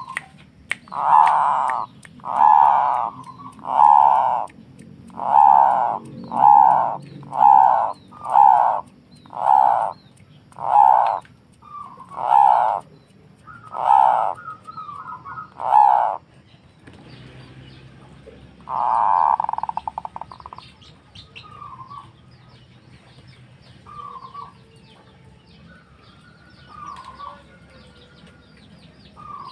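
Zebra dove (perkutut) cooing: a run of about a dozen short, evenly spaced coos, then after a pause one longer coo, followed by fainter scattered bird calls.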